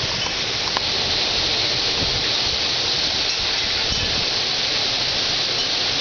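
Heavy rain pouring steadily in a severe thunderstorm downpour.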